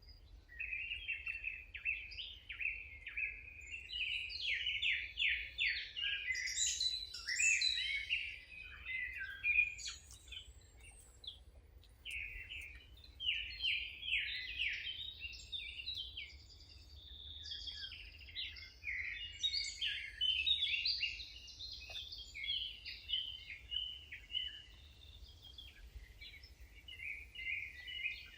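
Songbirds singing: dense runs of rapid chirps and trills, one phrase after another with short pauses, over a faint low hum.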